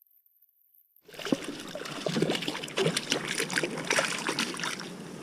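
Dead silence for about the first second, then water splashing and trickling in quick, irregular spatters.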